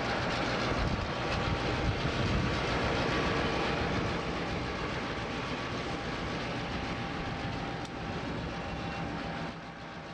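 A train rolling past: a steady rumbling noise that slowly fades and drops off sharply about half a second before the end.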